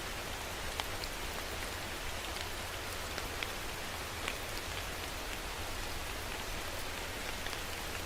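Steady rain falling, with a close drop now and then landing as a sharp, distinct tick.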